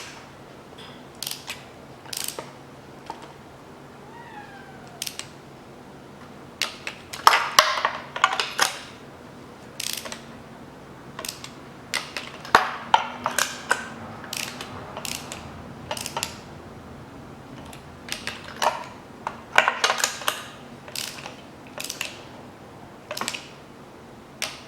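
Socket ratchet and torque wrench clicking in a few short runs, among scattered metal taps and clinks, as spark plugs are tightened into the cylinder head.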